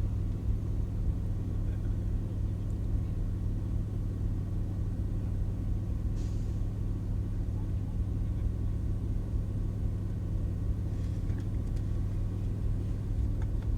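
Car engine idling steadily, heard from inside the cabin as a constant low hum.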